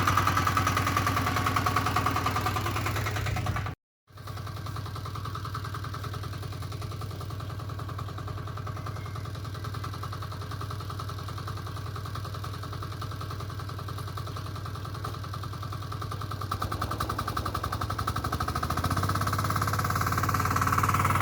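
Diesel engine of a two-wheel walk-behind tractor running with a fast, even knocking pulse. The sound cuts out for a moment about four seconds in and comes back quieter. In the last few seconds the engine speeds up, its note rising and growing louder.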